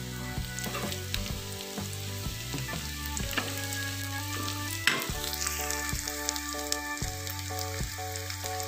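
Sliced onions and whole spices sizzling as they fry in oil in a pan, with a metal spatula stirring and scraping against the pan in scattered clicks, the sharpest about five seconds in.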